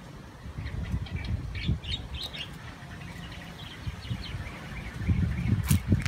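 Short, high bird chirps scattered over a low rumble. Near the end come a few sharp clicks as the zebra dove pecks seed from a plastic feeder cup.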